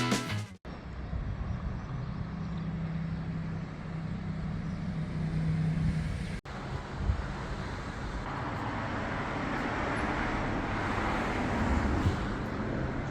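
Motorbike engine running at a steady pace while riding, with a rushing wind and road noise. The engine's steady hum is plain for the first few seconds, cuts out briefly about six seconds in, and the rushing noise swells near the end.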